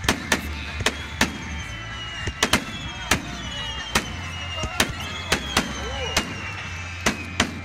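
Aerial fireworks shells bursting overhead: about fourteen sharp bangs, irregular and sometimes in quick pairs or triplets, roughly two a second, with long slowly falling whistles over them.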